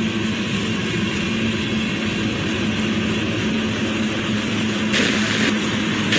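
Norfolk Southern freight train's covered hoppers and tank cars rolling past: a steady rumble of wheels on rail with a constant low hum, a brief higher-pitched burst about five seconds in, and a few sharp clicks near the end.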